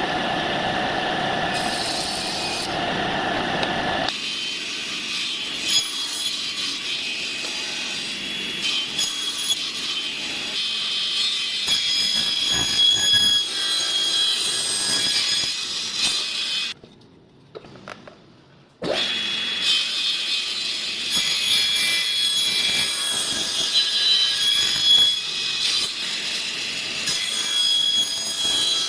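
Rough scraping and rubbing strokes of a tool working wood, irregular and scratchy. A steady motor hum runs for the first four seconds, and the sound drops out briefly about two-thirds of the way through.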